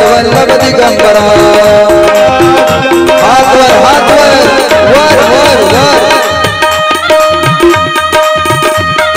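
Instrumental interlude of devotional bhajan music: a tabla-led drum rhythm under a melody line of repeated held notes, with sliding, wavering notes in the middle.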